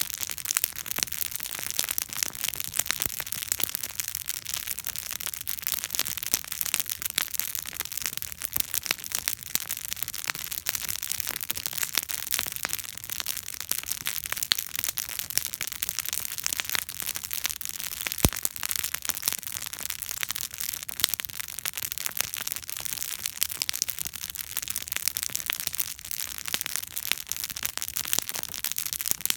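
Wood campfire burning with continuous dense crackling and popping, one sharper pop about two-thirds of the way through.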